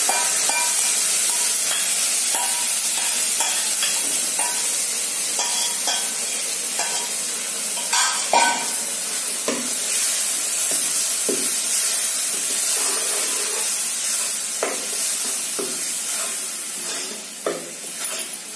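Tomato masala sizzling as it fries in hot oil in a kadhai, with a steel ladle scraping and knocking against the pan about once a second as it is stirred in with the onions. A louder clatter comes near the middle, and the sizzle eases a little near the end.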